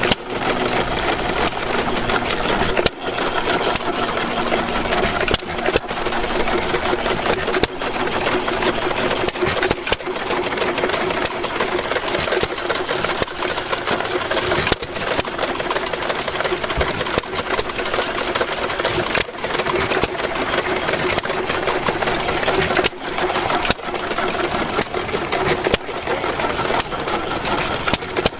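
Antique stationary gas engines running, a dense steady mechanical clatter with scattered sharp pops.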